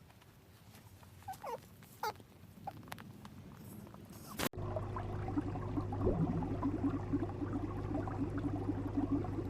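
Animal calls: a few faint, short calls at first, then, after an abrupt cut about four and a half seconds in, a louder busy chatter of many small overlapping calls over a steady low hum.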